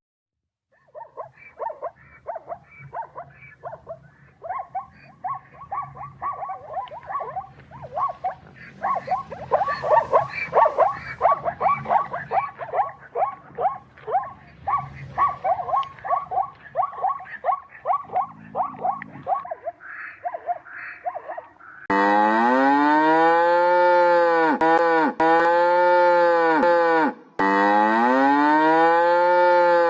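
Many short animal calls in quick succession, then, about two-thirds of the way in, a cow mooing loudly and at length, its pitch swelling and falling.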